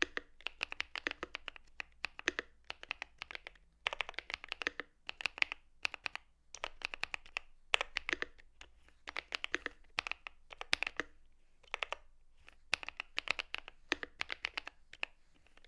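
Typing on a Monsgeek M3 aluminium TKL mechanical keyboard with pre-lubed KTT Matcha tactile switches, a PC plate and CMK ABS doubleshot keycaps. The keystrokes come in quick runs with short pauses between them.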